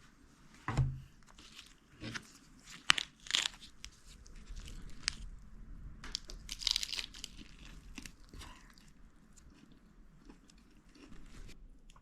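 Irregular crunching, crinkling and rustling handling noises in a small room, with a dull thump about a second in.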